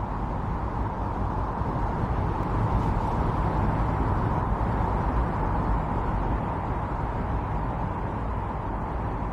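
Strong winter storm wind blowing steadily, a dense rushing noise that swells slightly in the middle and eases toward the end.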